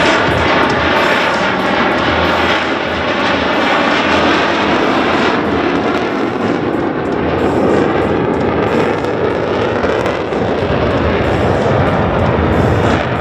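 USAF Thunderbirds F-16 Fighting Falcon jets flying past, their jet engines loud and steady throughout.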